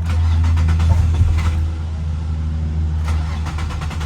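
Car engine being cranked over by the starter without catching, with a low steady hum and irregular knocks. It won't fire because the fuel pump is not coming on and no fuel is reaching the engine.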